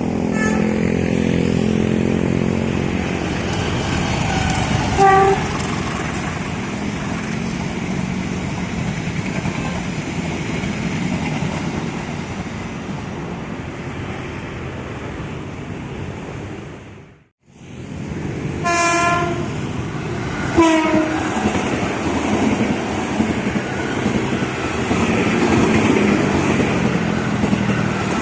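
Trains running past on the rails with a steady rumble and rattle, in two separate takes split by a cut about 17 seconds in. A short horn blast sounds about 5 seconds in. In the second take there is a longer horn blast at about 19 seconds, then a brief toot, and the running noise grows louder near the end.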